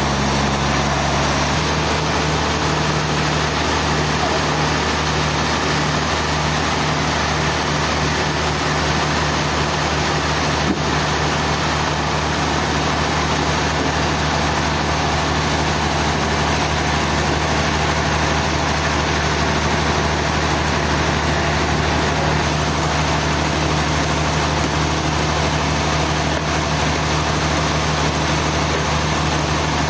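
Sawmill machinery's engine running steadily with a constant low hum and no cutting load. A single sharp click about eleven seconds in.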